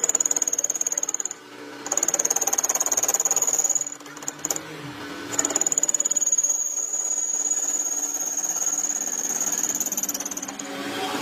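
Workshop power tool running in three bursts, with a high whine and a fast rapid pulsing, stopping briefly after about a second and again near the four-second mark.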